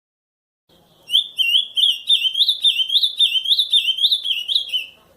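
Ultramarine grosbeak (azulão) singing one phrase of the camaquã song type: a run of repeated slurred whistled notes, about three a second, starting just under a second in and stopping just before the end.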